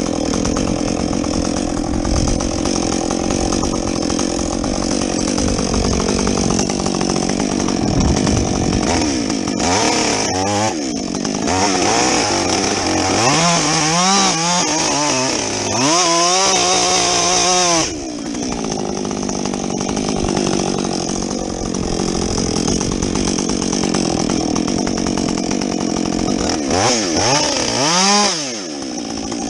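Husqvarna 562XP two-stroke chainsaw with a modified muffler running hard while bucking a felled tree. Its engine pitch swings up and down repeatedly through the middle and once more near the end.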